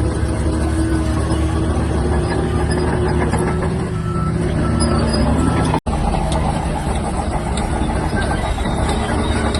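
Heavy bulldozer diesel engine running steadily under load. The sound cuts out for an instant about six seconds in.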